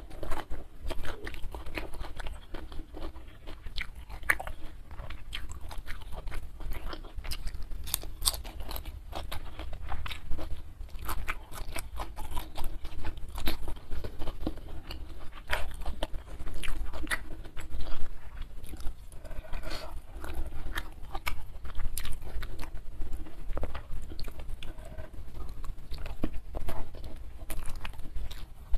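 Close-miked person chewing mouthfuls of rice and side dishes, with many irregular sharp wet clicks and crunches.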